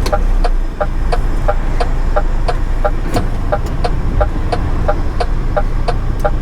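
Turn indicator ticking steadily in a lorry cab, about two and a half ticks a second, signalling a right turn, over the low rumble of the lorry's engine.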